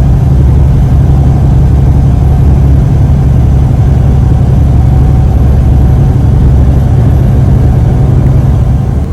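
Semi truck's diesel engine and road noise heard from inside the cab while driving, a loud, steady low drone.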